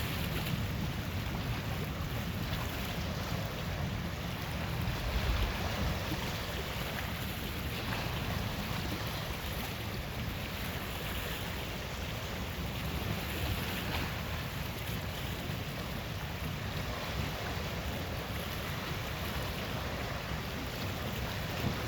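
Steady thunderstorm noise: an even hiss of wind and rain over a low rumble, with no sharp thunderclap.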